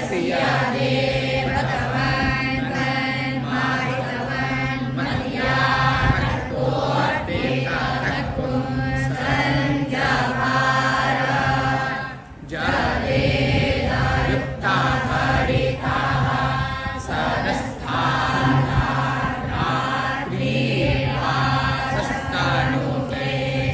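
A Hindu devotional mantra chanted by voices in unison over a steady low drone, pausing briefly about halfway through.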